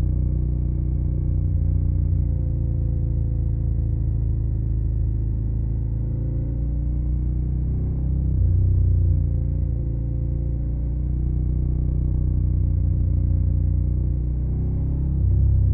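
Suzuki SV650's V-twin engine running through a Yoshimura Alpha carbon exhaust, a deep, steady low note. It swells briefly with throttle about eight seconds in and again near the end.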